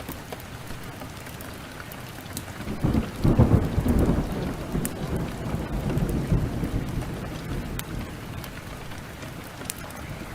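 A peal of thunder about three seconds in, rolling and rumbling away over the next few seconds, over a steady downpour of heavy rain. Sharp crackles of a wood fire pop here and there.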